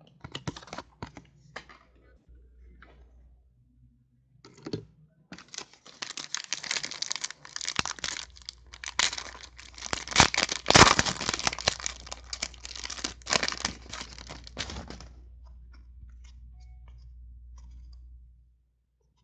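Foil trading-card pack wrapper being torn open and crinkled: a few light clicks, then about ten seconds of dense crackling.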